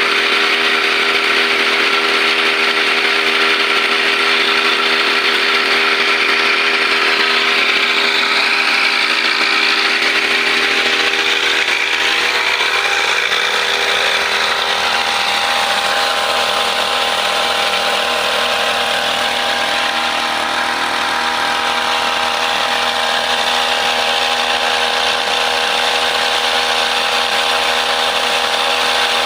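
Two-stroke brush cutter engine running steadily at high speed, its pitch shifting a little around the middle as it works through the paddy growth.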